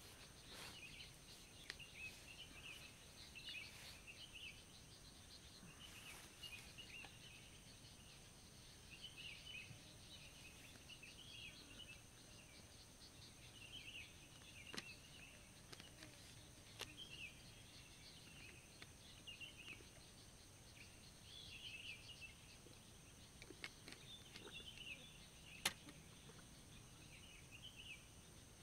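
Faint birdsong: small birds twittering in short repeated bursts over a steady high-pitched hum, with a few sharp clicks.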